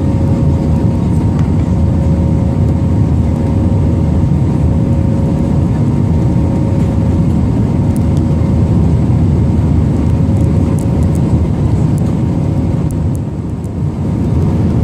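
Steady low-pitched noise of an Airbus A320's jet engines and rushing air, heard inside the passenger cabin, with two faint steady tones above it; the lower tone fades out about two-thirds of the way through.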